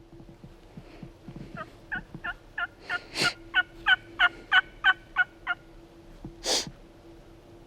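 Wild turkey calling: a run of about a dozen yelps, about three a second and growing louder, with a louder, harsher call cutting in about three seconds in and another near the end, taken for a gobbler answering.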